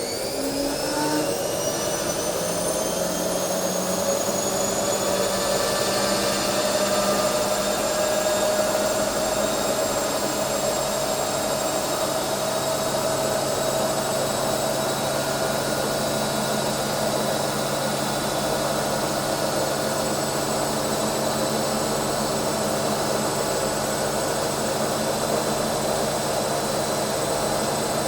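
A household appliance's electric motor finishing its spin-up to full speed, then running steadily with a high whine over a rushing hiss.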